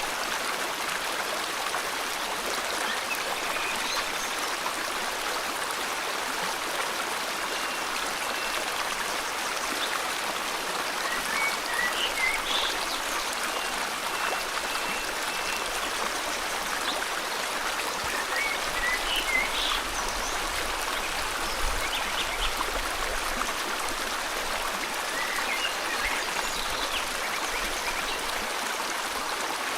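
River water flowing steadily, with short bird chirps coming through faintly in a few brief bursts over it.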